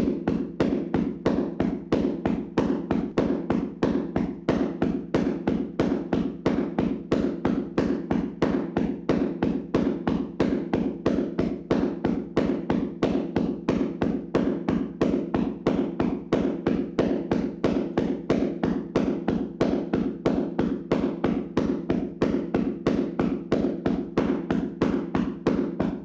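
Hands slapping and tapping on a person's body in a vigorous percussive massage: a fast, even rhythm of dull slaps, about three a second.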